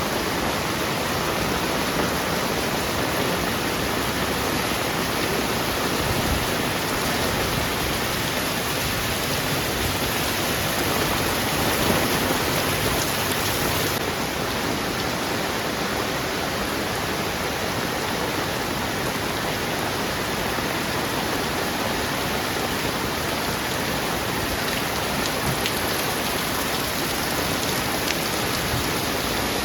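Heavy rain falling steadily, a dense, even hiss of rain on surfaces, a little softer about halfway through.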